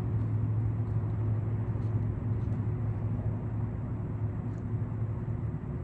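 Steady low mechanical hum with a few faint high ticks over it.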